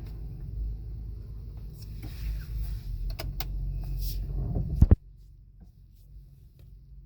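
Low rumble of a car in motion, heard inside the cabin, with a few clicks and a sharp thump just before five seconds, after which it turns much quieter.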